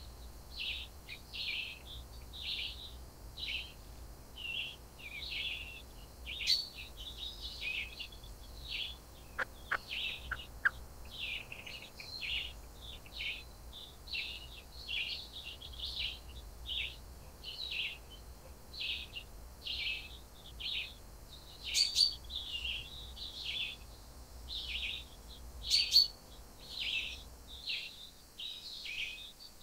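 Songbirds chirping in the forest: a steady run of short, high chirps, about two a second, with a few sharper calls scattered through.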